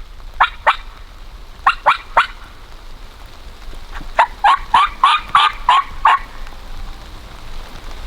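Turkey yelps: a pair, then three, then a quicker run of about eight short calls, each note dropping in pitch.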